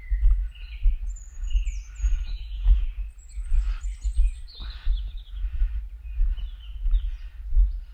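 Small forest birds chirping and singing, several short calls and warbles, over a low rhythmic thudding about twice a second, typical of footsteps and camera handling while walking.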